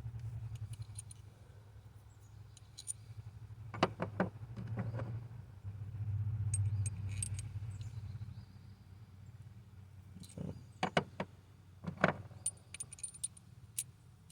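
Small metal hardware and hand tools clinking and jingling as bolts, spacers and wrenches are handled in an engine bay. There are two clusters of sharp clicks, about four seconds in and again about ten to twelve seconds in, over a low rumble that swells and fades.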